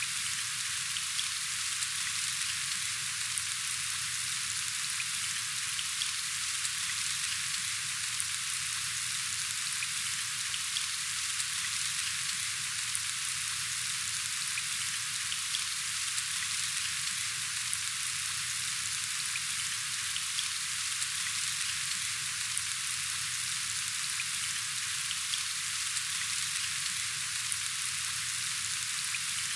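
Steady rain falling: a dense, even hiss of drops with faint scattered ticks.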